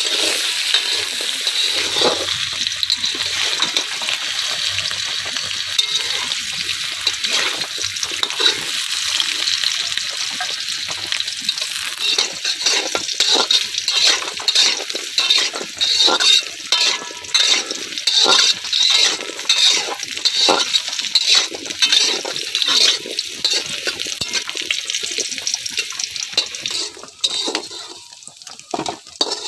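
Cubed potatoes sizzling as they fry in oil in an aluminium kadai, with a metal spatula stirring and scraping against the pan. The scrapes come thick and fast in the second half, and the sizzle drops away near the end.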